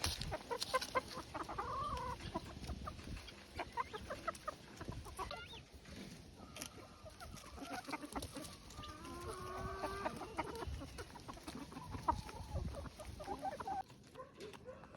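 Chickens clucking with short calls while pecking at a pumpkin, many quick sharp taps throughout. The sound drops away near the end.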